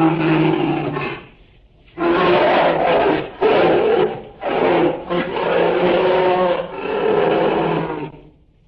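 Bear vocalising: a string of loud, long, pitched calls, one after another, with a short pause about a second and a half in.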